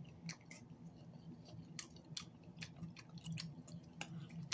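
A person chewing flatbread pizza close to the microphone: faint, irregular small clicks and smacks of the mouth, over a low steady hum.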